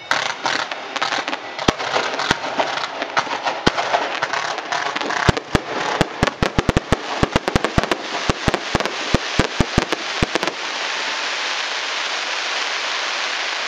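Aerial fireworks going off: continuous crackling with sharp bangs that come faster and faster toward the middle. About ten seconds in the bangs stop abruptly and a steady hiss carries on.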